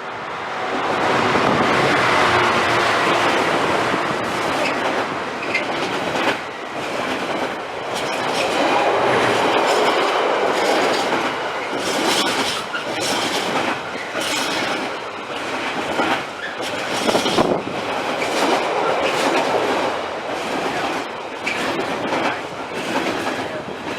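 A train passing at speed. Its wheels clatter over the track joints in a run of sharp clicks.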